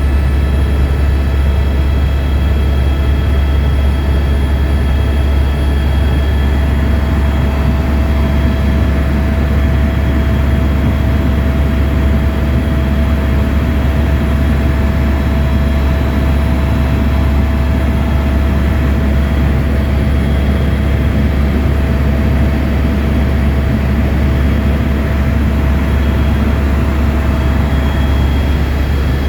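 Helicopter in flight: a steady deep rotor and engine drone, with a high, even turbine whine over it.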